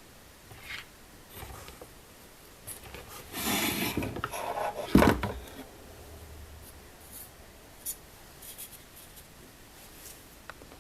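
Graphics card cooler parts being handled and fitted onto the card: a stretch of plastic and metal rubbing and scraping about three to five seconds in, ending in a sharp knock, with light clicks before and after.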